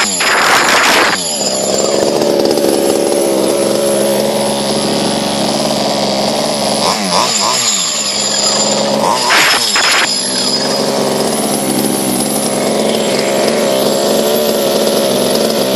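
The 30cc two-stroke gas engine of a large-scale RC monster truck running steadily, freshly fired up. The throttle is blipped a few times: a brief rev about a second in, a wavering rise and fall around seven seconds, and another short rev near ten seconds.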